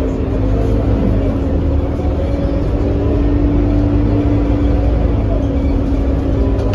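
Scania K230UB city bus running, its five-cylinder diesel giving a steady low drone with an even hum throughout.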